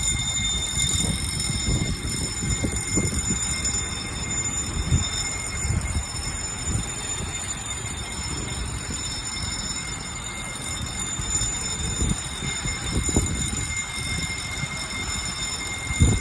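Heavy rain falling, heard as a steady wash over an uneven low rumble.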